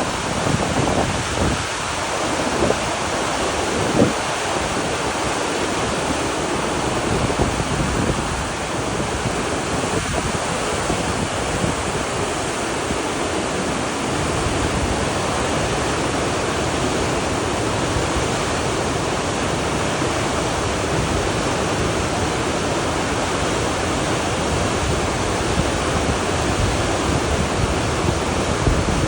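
Swollen floodwater rushing steadily through the canal locks, running high and fast after heavy rain. Wind buffets the microphone in the first few seconds.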